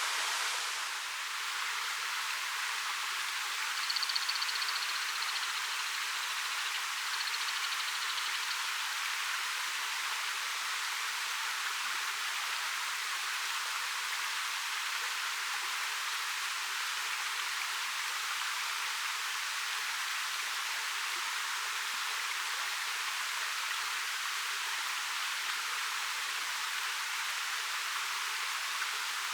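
Waterfall running steadily: the constant, even rush of water falling over a 13 m rock face. A faint, high, thin tone comes in about four seconds in and fades after a few seconds.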